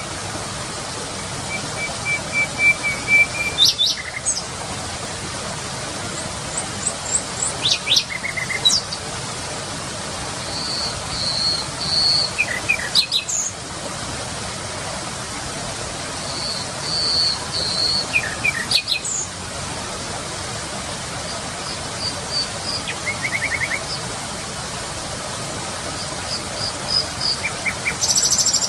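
Nightingale singing: varied phrases of rapid trills, quick sweeps and repeated whistled notes, each lasting a couple of seconds with short pauses between, over a steady hiss.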